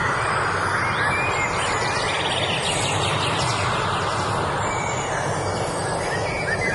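Several birds chirping and singing, with a rapid high trill about two and a half seconds in, over a steady rushing background noise.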